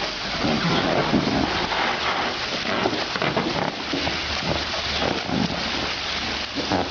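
Steady rush of running water, like a shower or hose spraying, with irregular lower sounds mixed in.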